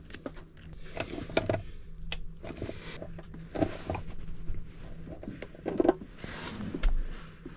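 Irregular clicks, knocks and handling noise of M6 rivet nuts being set with a hand tool, over a faint steady low hum.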